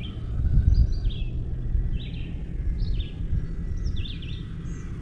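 Birds chirping outdoors: short, high calls repeating about once a second, over a low rumbling noise that is loudest about a second in.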